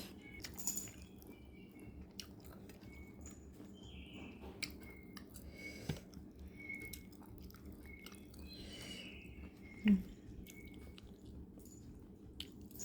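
Close-up chewing and mouth clicks while eating fried fish, with scattered small clicks and short faint high chirps in the background. About ten seconds in there is a brief, louder low vocal sound.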